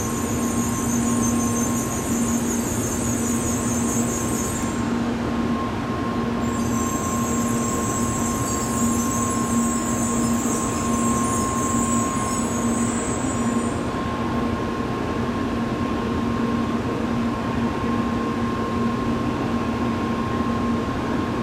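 Tokaido Shinkansen N700A train at the station platform, its equipment giving a steady hum with two held tones. A high hiss runs over it, breaks off briefly about five seconds in, then fades out about halfway through.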